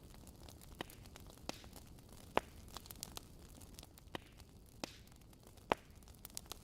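Fireplace wood fire crackling, with irregular sharp pops over a faint low rumble. The loudest pops come about two and a half and five and a half seconds in.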